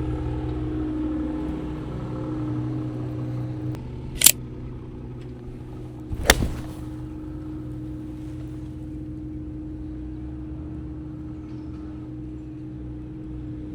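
Sharp crack of an 8-iron striking a golf ball off the tee, the loudest sound, about six seconds in, preceded two seconds earlier by a shorter, lighter click. A steady engine hum runs underneath.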